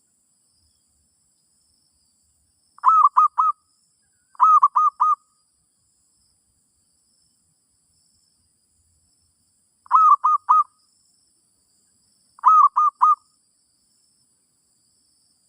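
Zebra dove cooing: four short phrases of three quick, rolling notes each. Two come about a second and a half apart, then after a pause of about five seconds two more follow.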